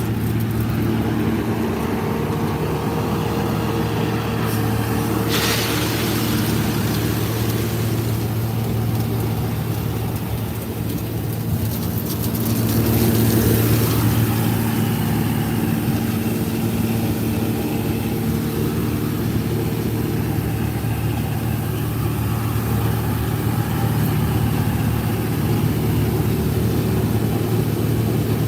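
Heavy diesel farm machinery running steadily during corn threshing, a low, even engine drone, with a hissing rush about five seconds in and a short louder spell around the middle.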